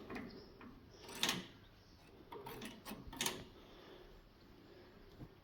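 A few light knocks and clicks of handling, the loudest about a second in and about three seconds in, with faint rustling between.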